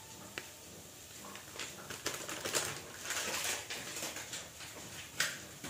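Spiced tomato masala paste sizzling and crackling softly in a frying pan, with a sharp click about five seconds in.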